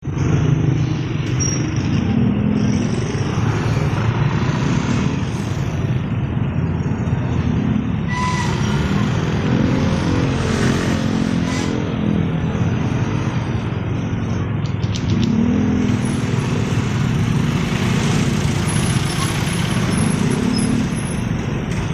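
Motorcycle engine running while riding on the road, with wind and road noise; the engine's pitch rises and falls with speed.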